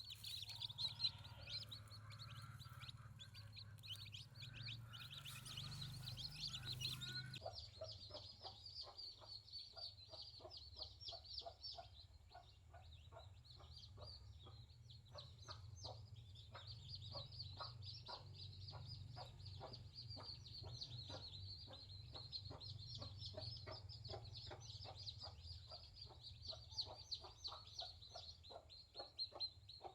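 Chickens clucking, with busy high chirping throughout; from about seven seconds in, a long run of short, quick calls repeats.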